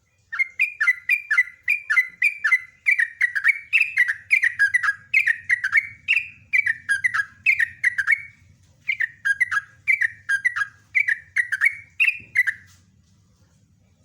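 Yellow-vented bulbul (trucukan) singing a long, rapid run of bubbling, chattering notes, several a second. It breaks briefly partway through and stops a little before the end.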